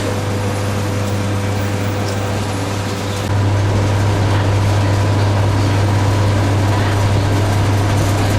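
Steady low mechanical hum, stepping up louder about three seconds in.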